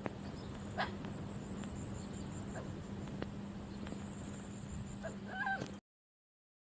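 Steady low hum over outdoor noise with a few faint clicks. Near the end comes a short animal call that bends up and down in pitch, and then the sound cuts off abruptly.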